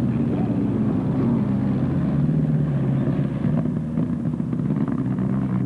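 An engine running steadily: a continuous low hum whose pitch drifts slightly.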